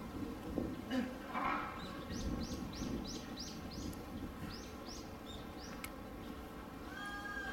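A small bird calling: a run of about seven short, high chirps that each fall quickly in pitch, about four a second, then three more a second later.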